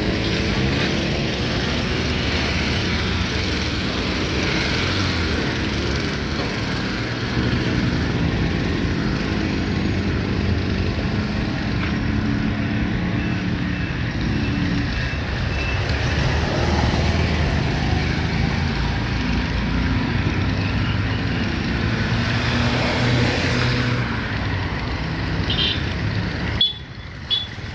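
Road traffic: motor vehicle engines running and passing, their pitch rising and falling over a steady road noise. Near the end the sound drops out briefly.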